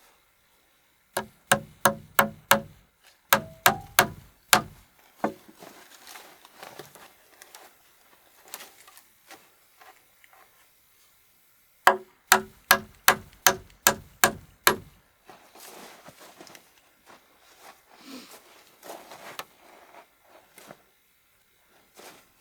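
Hammering on wood: quick runs of sharp, evenly spaced blows, about four a second, two runs of five near the start and a longer run of about nine in the middle, with softer scattered knocks and handling between.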